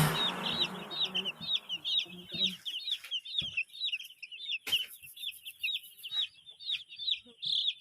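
Broiler chickens peeping: a steady run of short, high, falling peeps, about three a second, with a couple of brief knocks about three and a half and five seconds in. Background music fades out over the first two seconds.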